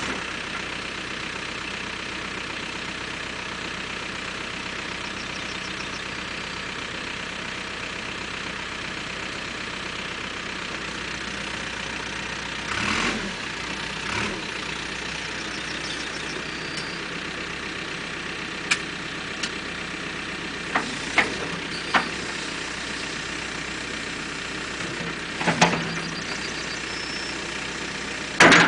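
Caterpillar 432E backhoe loader's diesel engine running steadily. A few short, sharp knocks and clunks come in the second half.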